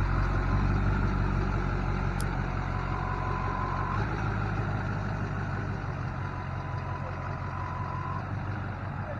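Duramax diesel truck engine running steadily, gradually quieter, heard from inside the cab. A steady beep tone sounds twice, each about a second long.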